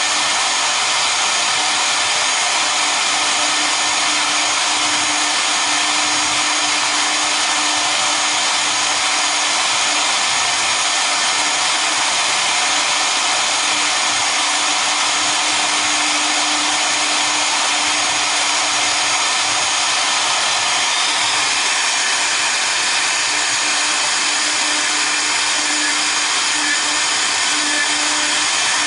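Double-head CNC router running a cutting job, its two spindles spinning at speed with a steady whine and an even cutting noise.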